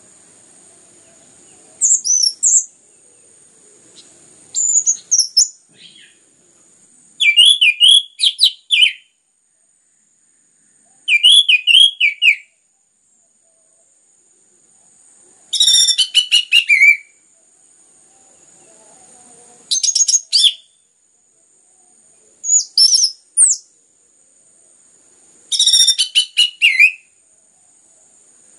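Orange-headed thrush (anis merah) singing in short, varied whistled phrases of quick rising and falling notes, about eight phrases with brief pauses between them. This is full, steady song of the kind played as a lure to set other thrushes singing.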